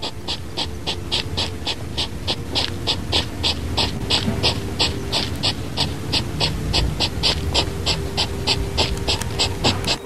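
An animal panting quickly and evenly, about three to four breaths a second, over a low rumble.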